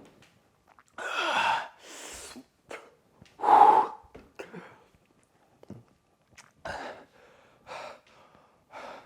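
A man gasping and breathing hard through his mouth, a series of sharp breaths with the loudest about three and a half seconds in, then softer breaths about a second apart near the end: his reaction to the burn of the hot sauce he has just eaten.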